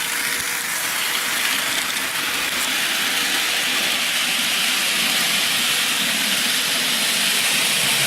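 Bachmann model train running on its track, a steady whirring hiss of the small electric motor and wheels, with the locomotive struggling where the owner suspects a bump in the track.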